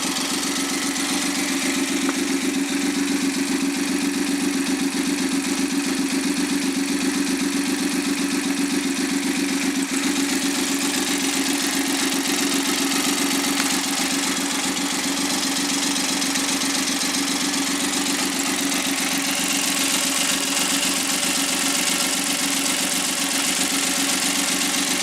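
Suzuki K6A 658 cc three-cylinder engine idling steadily on a test stand, fully warmed up after hours of running, as a bare engine without its turbocharger fitted.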